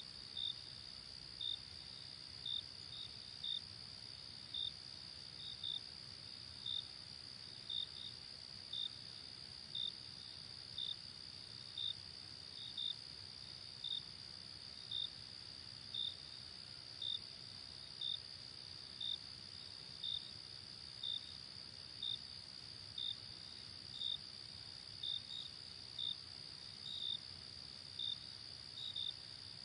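Night insect chorus: a steady high-pitched trill, with a single louder chirp repeating about once a second, sometimes doubled.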